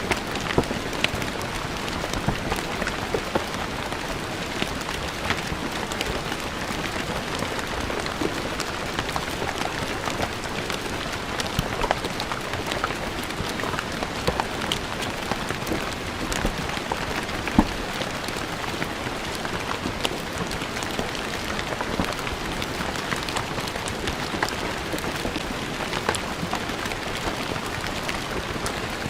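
Steady rain falling on a stone surface, a constant hiss with many individual drops pattering and splashing.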